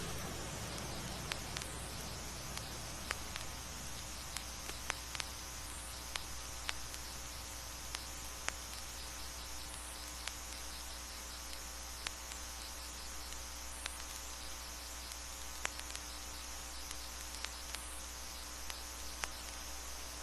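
Crickets chirping in a steady, pulsing high trill that pauses and resumes, over a low steady hum and scattered sharp clicks of vinyl record surface noise.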